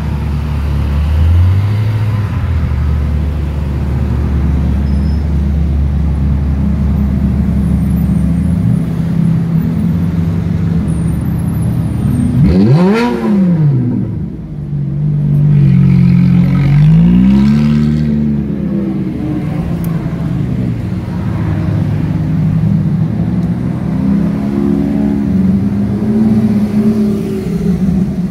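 Several sports car engines running at low revs in a slow-moving line, with a sharp rev blip rising and falling about halfway through and a softer one a few seconds later.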